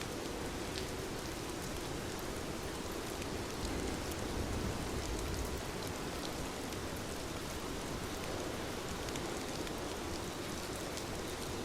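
Steady rain on a window, with scattered sharp drop ticks and a low rumble that swells for a couple of seconds near the middle.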